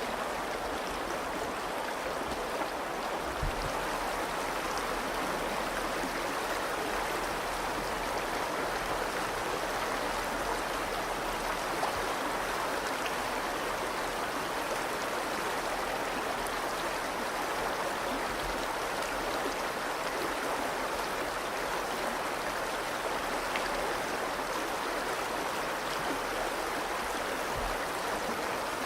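The Virgin River flowing: a steady, even rush of stream water, with a faint low thump a few seconds in and another near the end.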